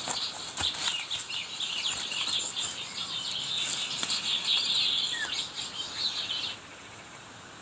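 Small songbirds twittering and chirping rapidly and densely, mixed with a few sharp clicks, stopping abruptly about six and a half seconds in.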